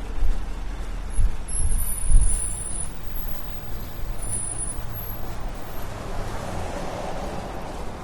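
Road traffic with a large vehicle going by: a steady low rumble with two low thumps in the first couple of seconds, and a swell of engine and tyre noise that peaks near the end.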